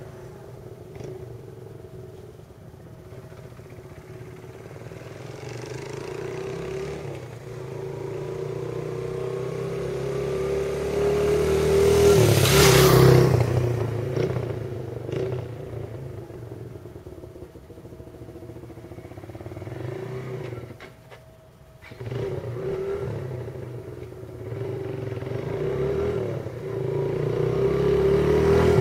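Suzuki GZ125's single-cylinder four-stroke engine running through a modified muffler. The sound swells to its loudest about twelve seconds in and eases off. It drops away briefly around twenty-one seconds in, then builds again near the end.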